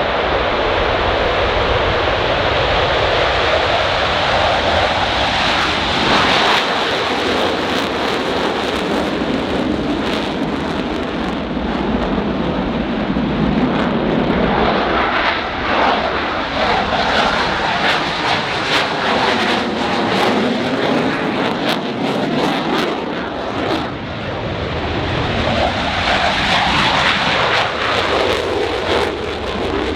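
Blue Angels jet aircraft flying past: continuous loud engine noise that swells and fades, with a sweeping shift in pitch midway as they go over.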